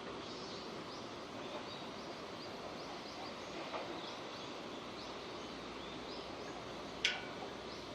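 Steady rain falling, an even hiss, with faint short high chirps scattered through it. A single sharp tap about seven seconds in is the loudest sound.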